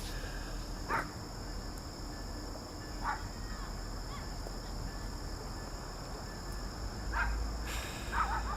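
Night outdoor ambience: a steady high insect drone with a few short animal calls about a second, three seconds and seven to eight seconds in, over a low steady rumble.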